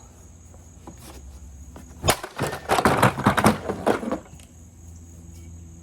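A dented metal baseball bat strikes a vacuum cleaner hard about two seconds in, followed by about two seconds of clattering as the blow knocks the vacuum's top off and its parts rattle down. Crickets chirp steadily in the background.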